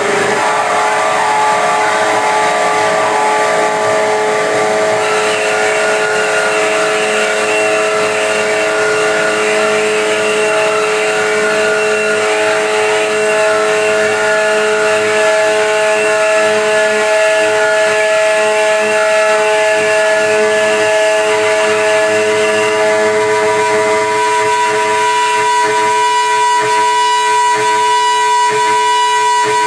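Live experimental noise music: a loud, dense wash of sound with several steady held tones droning underneath, a higher steady tone coming in about three-quarters of the way through.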